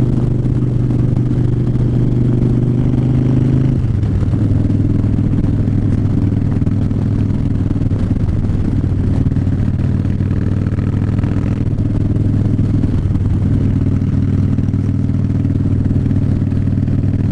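2009 Harley-Davidson Fat Bob's V-twin engine running under way at steady speed, its note dropping in pitch about four seconds in and shifting slightly again near thirteen seconds.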